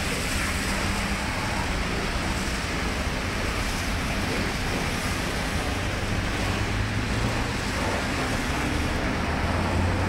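Steady rumble of car engines and road traffic, with a low engine hum growing stronger in the second half.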